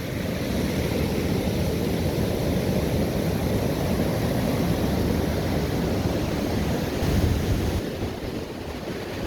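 Ocean surf washing on a beach, a steady rush with wind rumbling on the microphone; it swells slightly about seven seconds in, then eases.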